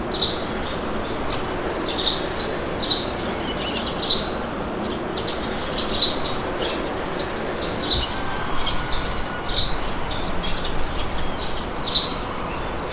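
Steady wind blowing, with birds giving short high chirps over it every second or two.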